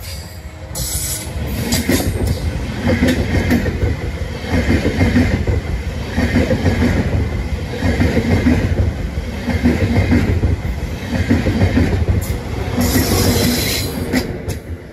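A train passing close by, its wheels clattering over the track in a regular rhythm about every one and a half to two seconds. The clattering fades near the end.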